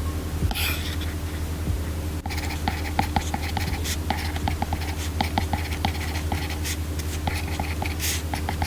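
Apple Pencil tip tapping and sliding on an iPad Pro's glass screen in quick, light ticks as someone writes, over a steady low hum.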